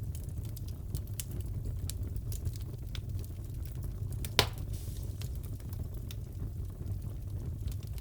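Crackling fireplace: a steady low rumble of burning wood with scattered small crackles and one loud pop about halfway through.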